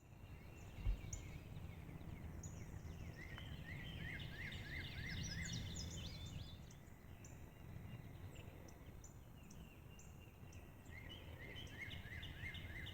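Several songbirds singing outdoors in spring, with repeated runs of quick falling chirps under a steady low wind rumble. A single dull thump about a second in.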